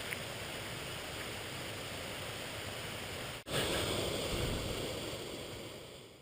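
Steady rush of running stream water. About three and a half seconds in it cuts briefly, comes back louder, and then fades away toward the end.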